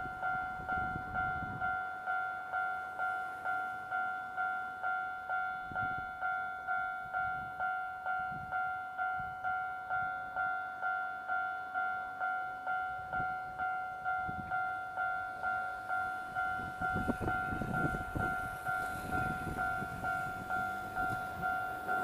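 Japanese level-crossing warning bell ringing: a two-tone electronic ding struck steadily about twice a second, signalling that a train is approaching. Train rumble rises under it near the end.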